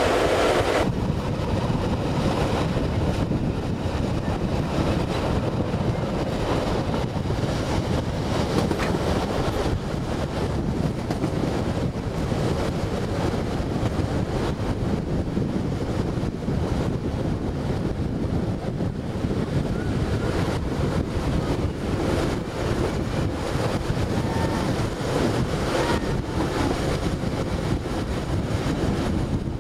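Wind buffeting the microphone from the window of a moving passenger train, over the train's steady running noise.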